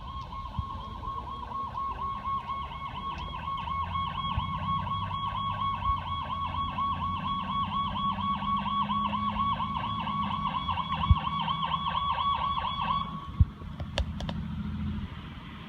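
Electronic siren of a responding emergency vehicle in a fast warble, over the low rumble of a heavy diesel engine. The siren cuts off about thirteen seconds in, leaving the engine rumble and a few sharp knocks.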